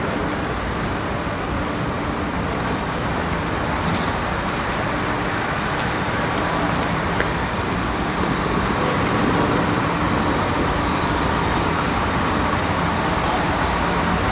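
Steady vehicle and traffic noise, a continuous din with a faint low engine hum under it.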